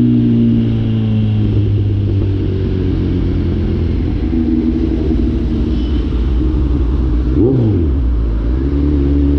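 Kawasaki Z900's inline-four engine, catalytic converter removed, running under way: the engine note falls as it slows, gives a quick blip about seven and a half seconds in, then settles lower and starts climbing again near the end.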